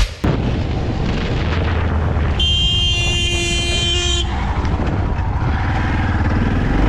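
Steady rush of riding noise from a motorcycle on the road, with a vehicle horn held in one long blast starting about two and a half seconds in and lasting nearly two seconds.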